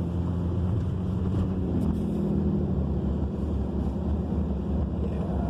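Truck engine running steadily with road noise as it drives slowly.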